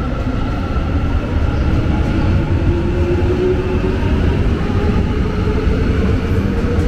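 Electric train running with a heavy low rumble and a motor whine that climbs slowly in pitch, as when a train pulls away and picks up speed.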